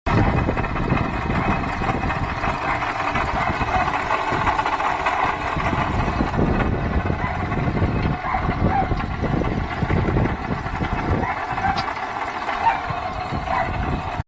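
Toyota Corolla 1.8-litre 7A-FE four-cylinder engine running, with the abnormal noise of a worn water pump.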